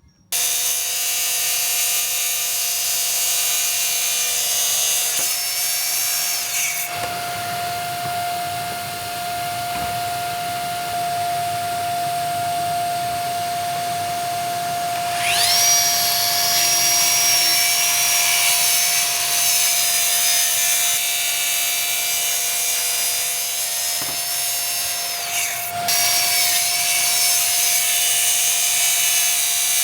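HiKOKI 36V cordless track saw running and cutting through wood, starting suddenly. Its motor whine is steady, with the tone shifting a few times as the cut goes on.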